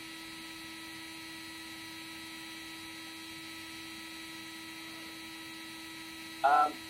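Steady electrical hum with a few faint, steady high whines from an idle 3D printer setup that is powered but not moving; no stepper motors run. A brief voice sound comes near the end.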